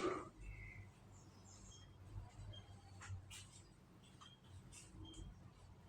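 Canaries chirping faintly in short, scattered high calls, with a few light clicks in between.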